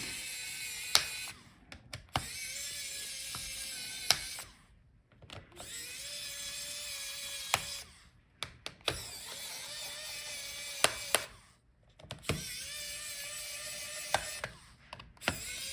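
Small electric screwdriver whirring in about six runs of two to three seconds each, backing out the laptop's heatsink screws, with sharp clicks in the short pauses between runs.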